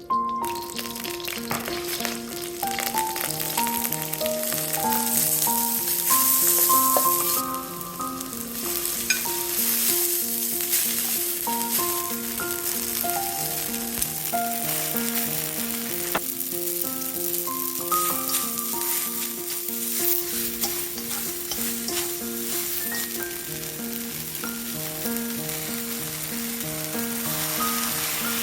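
Chicken and rice vermicelli stir-fry sizzling in hot oil in a pan while being stirred and tossed, loudest about six seconds in. Background music with a light, steady pulse plays underneath.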